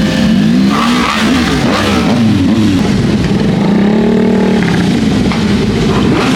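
Motorcycles in a parade passing close by one after another, their engines revving and overlapping, the pitch of each rising and falling as it goes past.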